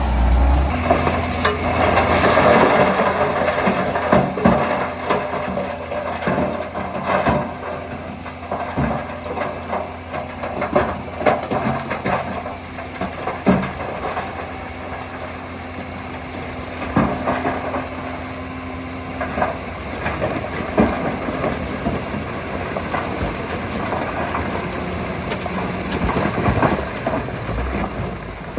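Diesel engine of heavy earthmoving machinery running steadily, with scattered sharp knocks and clanks throughout.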